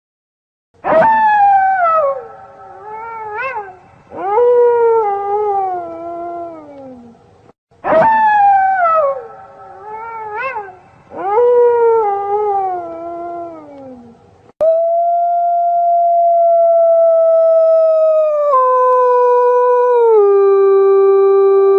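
Wolf howling: falling howls with short rising-and-falling cries between them, the same sequence heard twice in a row, then one long held howl that drops in pitch in two steps near the end.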